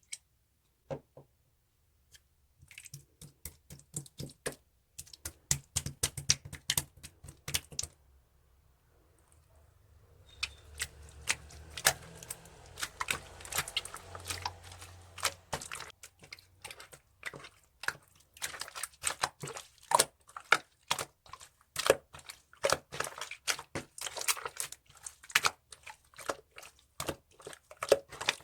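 Slime being squeezed and pressed by hand, giving a rapid, irregular run of sharp clicks and pops, with a short lull about eight seconds in.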